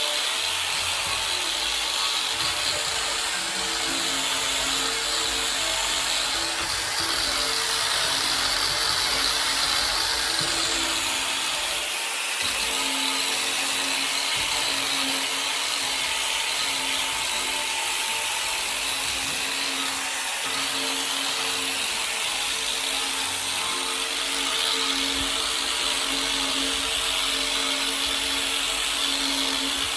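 Power tool running a sanding wheel, grinding steadily against a bicycle frame to strip it to bare metal.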